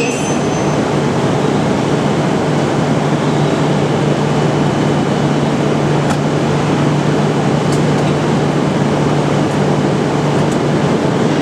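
A Tohoku Shinkansen train standing at the platform after coming to a stop: a last faint brake squeal dies away in the first second, then its cooling and air-conditioning equipment runs with a steady rushing noise and a low hum.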